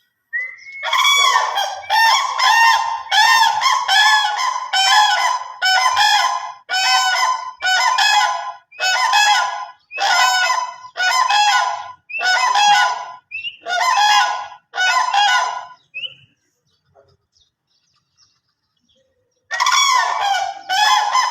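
Cranes calling: loud trumpeting calls repeated in quick succession, breaking off for a few seconds before starting again near the end.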